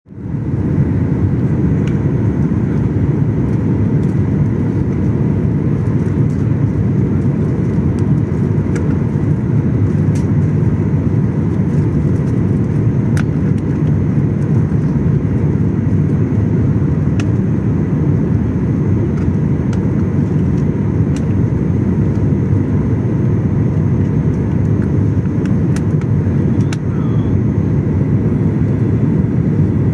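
Steady rumble of an airliner's jet engines and airflow heard inside the passenger cabin, loud and unchanging, with a few faint ticks.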